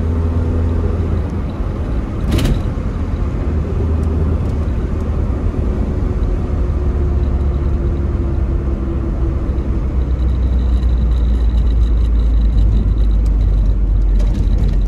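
Tofaş Şahin engine and exhaust heard from inside the cabin while driving: a steady low drone whose note slowly sinks, then grows a little louder near the end. There is one sharp knock about two and a half seconds in.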